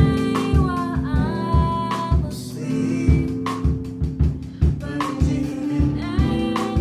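Live band playing: a drum kit beat under sustained keyboard chords, with a sung vocal line of held and gliding notes over it.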